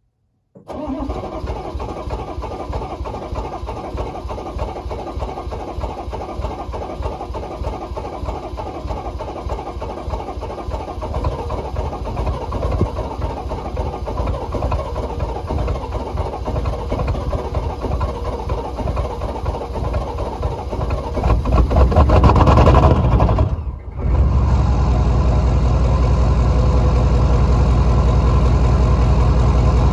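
6.5 L Detroit diesel V8 running cold, with a fast, even clatter. It cuts in suddenly about half a second in, swells louder about three-quarters of the way through, drops out for a moment, then comes back steadier and a little louder with a deeper hum.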